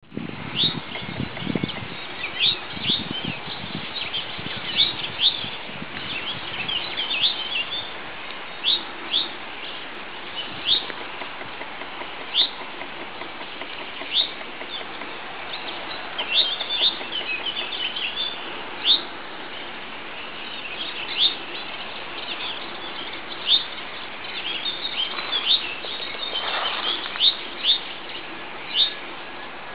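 Rock bunting calling: short, thin, high notes repeated at irregular intervals about a second or two apart, with a few brief runs of quicker notes.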